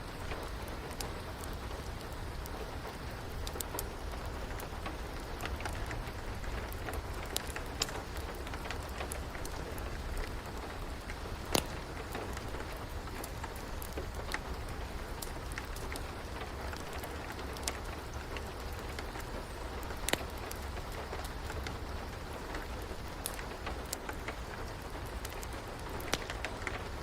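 Steady rain, with the sharp pops and crackles of a wood fire scattered through it and a few louder pops.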